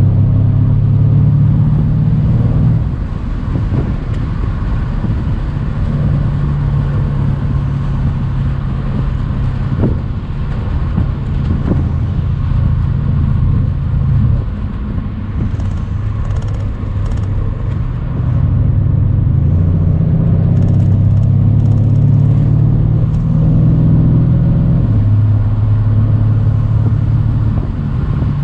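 Mercedes-AMG C63's twin-turbo V8 pulling under throttle on the move, easing off about three seconds in and again about halfway through, then pulling again.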